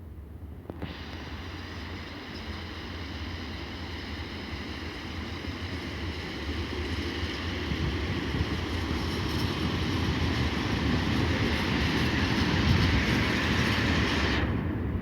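Passenger train running past, growing steadily louder, with a steady whine of several tones over the rumble and rail noise. It starts and stops abruptly.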